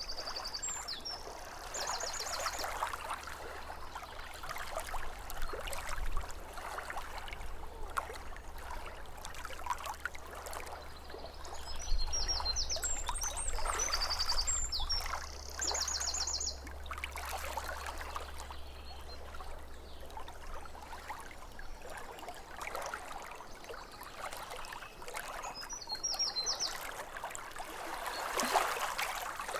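Small waves lapping at a lake shore, with a songbird singing short trilled phrases three times: at the start, about halfway, and near the end. A low hum sits underneath and stops about three-quarters of the way through.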